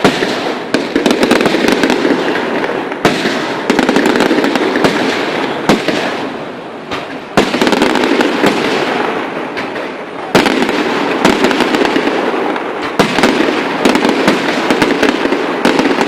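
Fireworks display going off continuously: a dense crackle of bursting shells and firecrackers, with sharper bangs about three seconds in, at about seven and a half seconds, and about ten seconds in.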